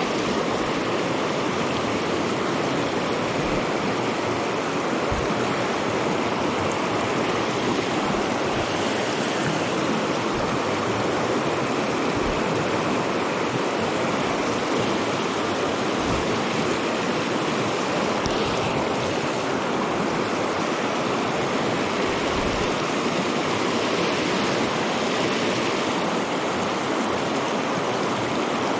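Trout stream water rushing steadily.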